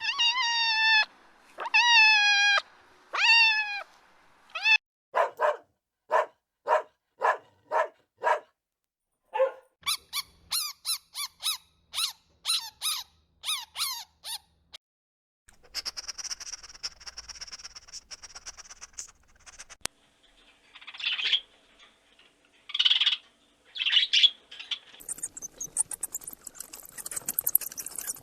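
A run of different animal calls in separate clips: a few falling, whining calls at first, then a string of short quick calls, rapid high squeaks and chirps, and later a few louder calls and a high hiss.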